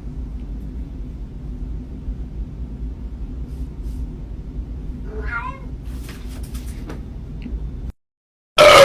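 A steady low rumble close to the microphone, then a short cat meow about five seconds in. Near the end, after a brief silence, a much louder cat meow.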